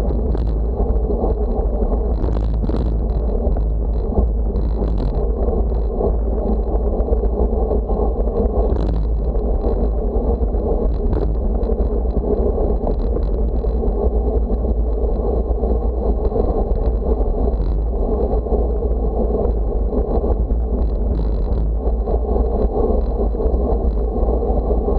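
Steady wind rushing over the microphone with a low rumble of road noise from a moving bicycle, with a few light clicks.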